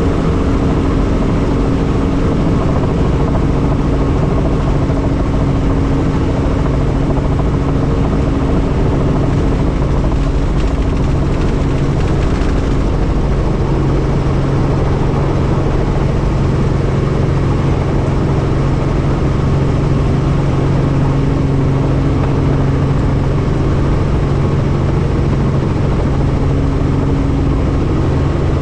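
Helicopter in flight: a loud, even drone of rotor and engine with a steady low hum, whose tone shifts a little about halfway through.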